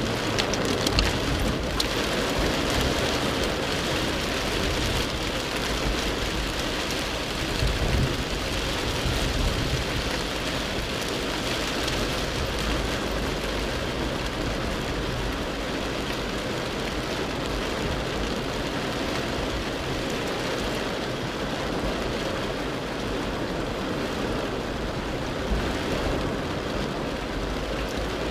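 Heavy rain beating steadily on a Mercedes G300's windscreen and body, heard from inside the cabin, with the low, even running of its OM642 V6 diesel and the tyres on the waterlogged road underneath.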